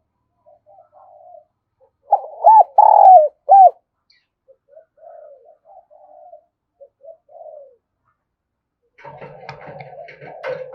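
Spotted dove cooing: soft coos, then a loud phrase of several coos about two seconds in, then quieter coos. A noisier, scratchy sound starts near the end.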